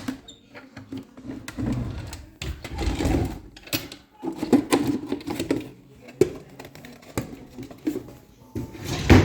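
Irregular knocks, clicks and rustling of objects being handled and set down, with the sharpest knock near the end.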